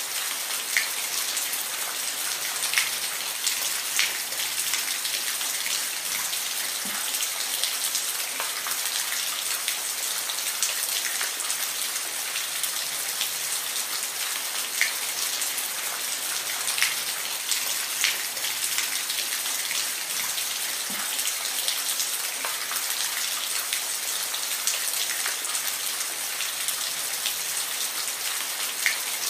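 Steady rain falling, a continuous hiss with individual drops ticking on a surface now and then.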